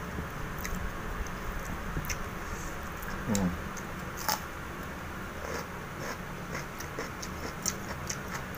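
Close-up mukbang eating sounds: chewing fresh cucumber and fried duck, with scattered wet mouth clicks and small crunches over a steady low hum. A short low murmur comes about three seconds in.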